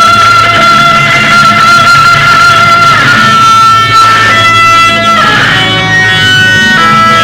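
Loud guitar music. One high note is held for about three seconds, then the guitar moves through shorter notes that change pitch.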